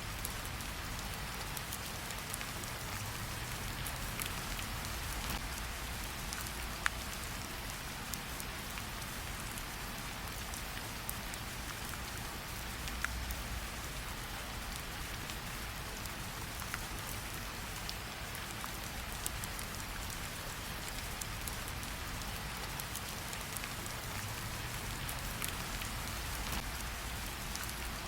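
Steady rain falling, mixed with the scattered sharp crackles of a campfire.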